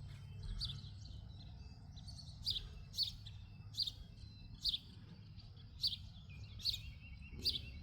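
Birds chirping outdoors: short, sharp, high calls repeated about once a second, with a steady high note coming in near the end, over a low background rumble.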